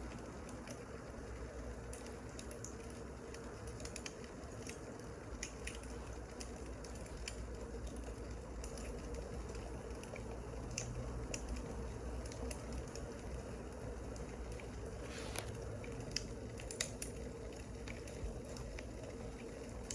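Wood fire crackling: irregular small pops and snaps over a steady low hiss.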